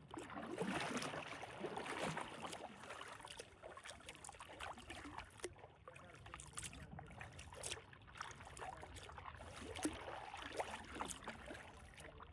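Kayak paddle strokes through calm water, the blade dipping and pulling in swells, with scattered small splashes and drips.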